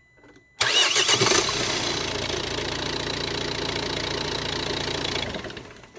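Ford Focus 1.6 diesel cranked by its starter motor about half a second in, the engine catching within a second and running steadily, then switched off and dying away near the end. The starter now turns the engine over instead of just clicking, because the corroded, loose connection on the solenoid's main terminal has been cleaned and tightened.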